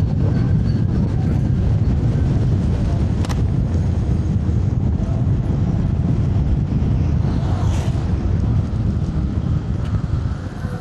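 Wind rumbling over the microphone of a camera carried on a moving electric scooter, mixed with tyre noise on snowy pavement. There is one sharp click about three seconds in, and the rumble eases off near the end.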